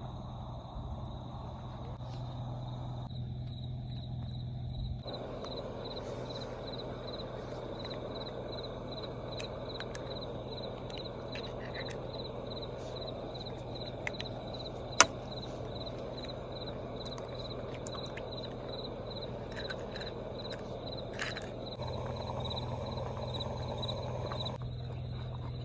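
Crickets chirping steadily at night, a high pulsed chirp about twice a second, over a low steady hum that drops out for a stretch and returns near the end. One sharp click sounds about halfway through.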